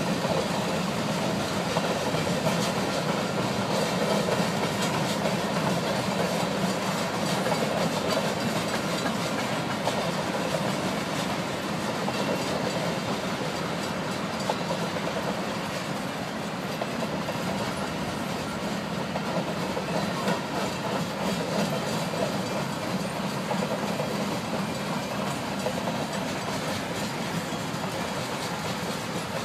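Union Pacific freight train's cars rolling past on the track, a steady, continuous rumble of wheels on rails.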